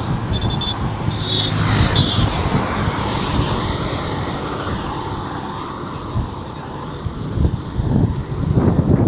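Road traffic: motor vehicles running along the highway, a steady engine rumble that eases off in the middle and builds again near the end. Three short high beeps sound in the first two seconds.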